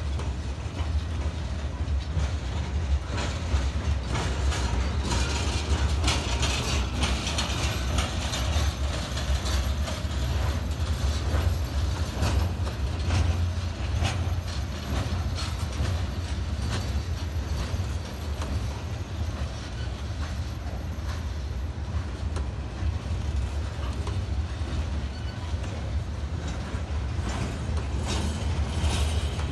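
Freight cars loaded with steel coils rolling past on the rails: a steady low rumble of steel wheels, with frequent clicks and clanks over the rail joints.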